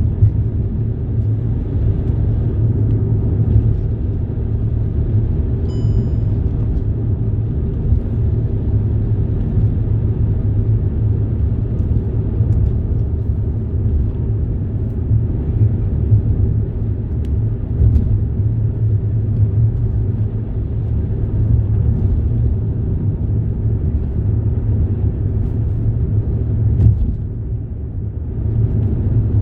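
Steady low rumble of a moving vehicle heard from inside, with a brief high tone about six seconds in.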